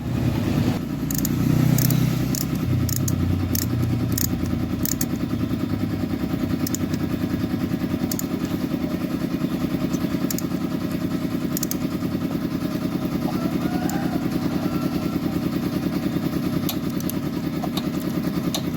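Small motorcycle engine running at a steady idle, a little louder over the first couple of seconds before settling.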